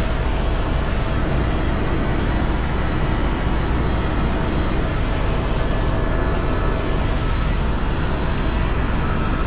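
Helicopter in flight, heard from aboard: a steady drone of rotor and engine with a strong low rumble and a faint steady whine.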